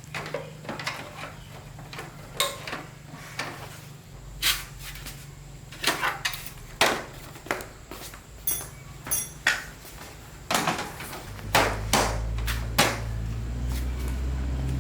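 Irregular knocks and clinks of metal tools and engine parts being handled and set down during motorbike engine repair. About eleven seconds in, a steady low hum starts and keeps going.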